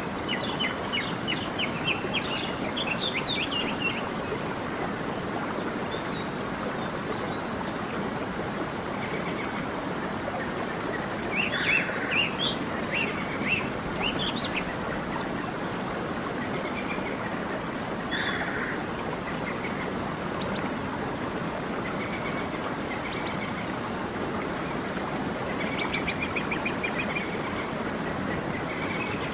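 A creek running steadily, with small songbirds chirping over it in short bursts of quick high notes, busiest about 11 to 14 seconds in.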